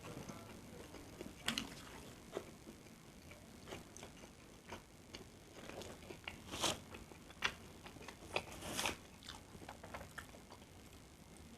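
Chewing and eating nasi goreng (Indonesian fried rice), with scattered short sharp clicks throughout, the loudest coming between about six and nine seconds in.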